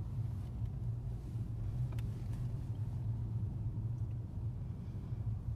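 Steady low drone of a car's engine and road noise heard inside the moving car.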